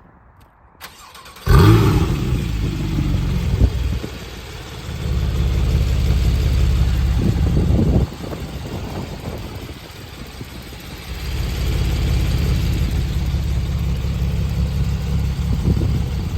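2015 Porsche 911 Carrera S's 3.8-litre flat-six cold-started: it catches with a loud flare about a second and a half in and settles to a fast idle. Twice it runs louder for several seconds at a time before dropping back.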